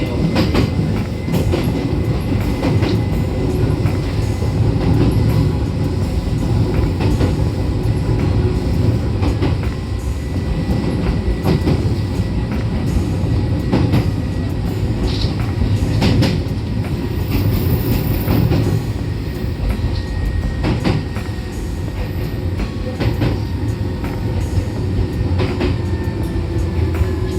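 Electric train running on the rails with a steady rumble and clicks of the wheels over rail joints. Near the end a thin whine slowly falls in pitch as the train slows.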